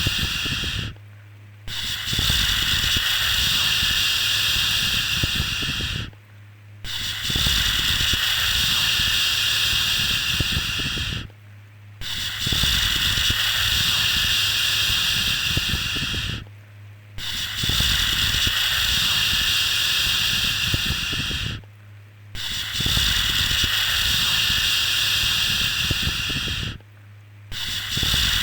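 Long, steady 'shhh' shushing sounds, each about 4 to 5 seconds, repeated in a regular loop with a brief pause between them about every five seconds. This is the rhythmic shushing used to soothe a baby to sleep.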